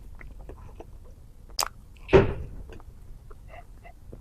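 Close-miked eating and handling noises: faint small clicks and mouth sounds, then a sharp click and a heavier thump about two seconds in.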